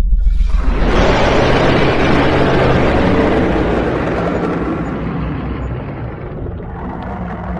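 Dragon roar sound effect: a loud, rough roar swells in about half a second in over a deep rumble, then fades slowly over several seconds.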